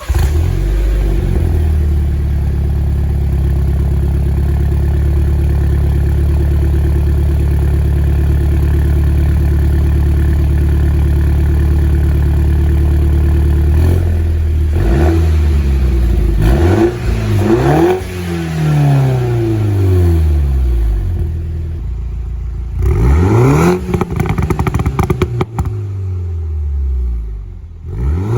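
Mini Cooper S F56's turbocharged four-cylinder running through a newly fitted Invidia Q300 cat-back exhaust. It idles steadily for about half the time, is then revved up and let fall back several times, and near the end takes a string of quick throttle blips.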